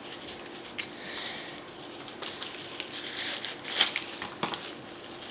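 Packaging crinkling and rustling as it is handled and opened, with scattered small clicks and a couple of sharper crackles near the end.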